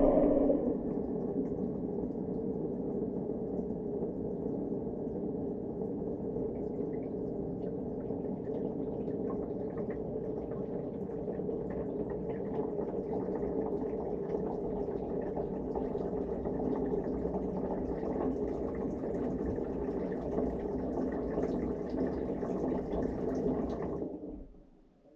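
Dishwasher in its wash cycle, heard from inside the tub: a steady, muffled wash of spraying water and the running pump, which stops near the end.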